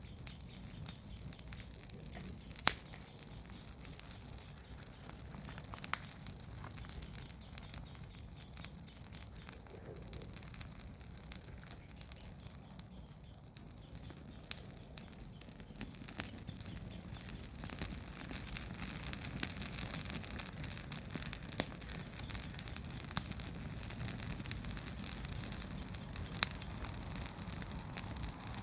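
Garden-waste bonfire crackling, with scattered sharp pops of burning wood and the rustle of burning leaves; the crackling grows denser and louder about two-thirds of the way through.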